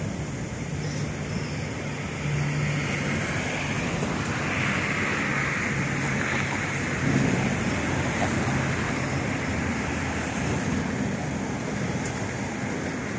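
Covered freight wagons rolling past on the rails: a steady rumble and rush of wheels on track.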